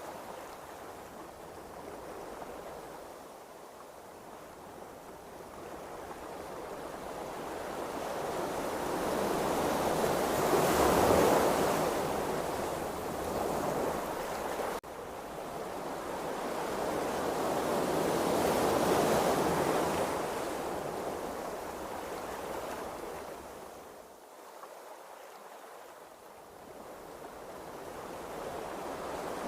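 Ocean waves washing in slow surges, swelling to a peak about a third of the way in and again past halfway, then easing off, with a momentary dropout near the middle.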